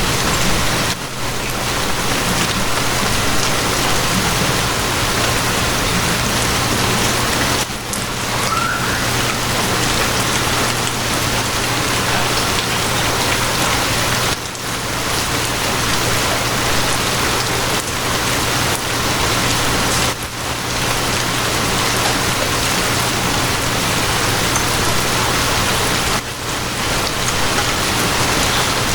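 Steady rain falling, an even hiss with a low steady hum underneath; the level dips briefly about every six seconds.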